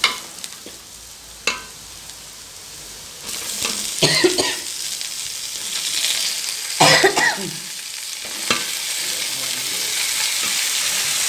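Onions, coconut pieces and green chillies frying in hot oil in an aluminium pot, then sizzling harder and louder once raw chicken pieces go in about three seconds in. A few knocks and scrapes of a utensil against the pot come through the frying.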